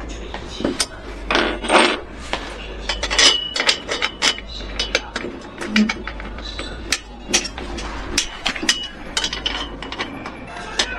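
Irregular sharp knocks and metallic clinks, several close together at times, some with a brief ring, like hard objects or tools being handled and tapped.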